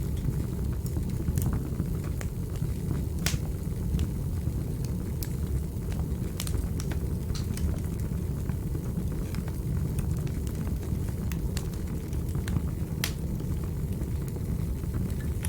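Wood fire burning in a fireplace: a steady low rumble of the flames with sharp crackles and pops at irregular moments, a few louder ones about three and thirteen seconds in.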